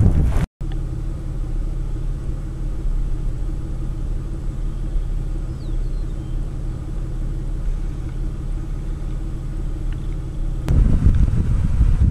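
A vehicle engine running steadily with an even low hum, after a brief dropout just after the start. Near the end it gives way to wind buffeting the microphone.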